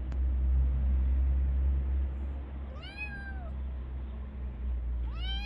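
A cat meows twice, each call rising and then falling in pitch, the second near the end. A low rumble runs underneath and is strongest in the first two seconds.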